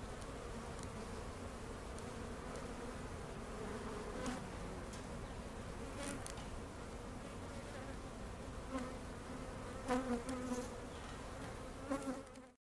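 Honey bees swarming and buzzing close around the microphone: a steady drone with single bees passing close and louder now and then, strongest about ten seconds in. The bees are agitated and defensive after their nest in the soffit was dusted. The sound cuts off suddenly near the end.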